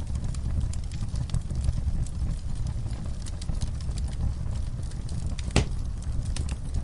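Wood fire burning: a steady low rumble with frequent small, irregular crackles and one louder pop about five and a half seconds in.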